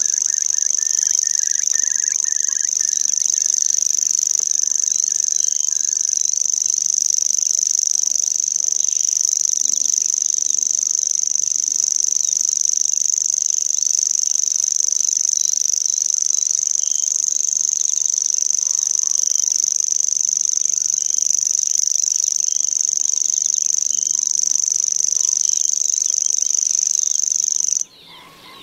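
Common grasshopper warbler reeling: one long, unbroken, high, insect-like trill that stops abruptly near the end. A fainter second bird call is heard in the first few seconds.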